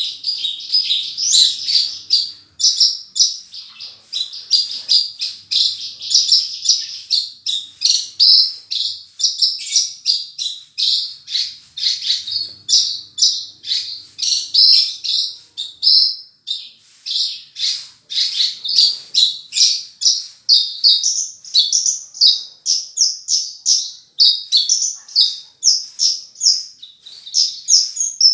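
Australasian bushlark (branjangan) singing without pause: a fast, dense run of short high chirps and trills. It is the full, varied 'isian' song, stuffed with imitated phrases, that keepers prize.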